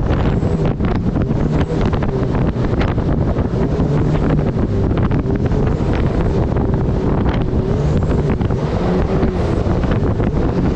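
Turbocharged Honda engine of a mini jet boat running steadily at high power under way, its pitch wavering slightly. Heavy wind buffeting on the microphone and rushing water sit over it.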